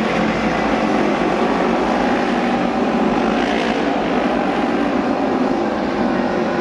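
Auto race motorcycles running flat out around the oval, a steady, loud, continuous engine racket from several machines, briefly louder and brighter around the middle as bikes pass close.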